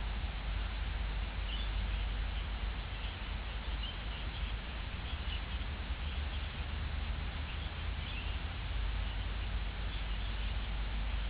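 Steady hiss of rain on an outdoor nest-camera microphone, with a low rumble underneath. Faint, short high chirps come every second or two.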